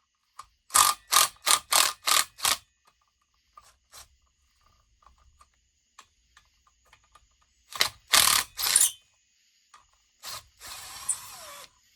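Ratchet wrench clicking in quick strokes, about three a second, as it turns out bolts: one run near the start and a shorter one about eight seconds in. A brief steady scraping sound follows near the end.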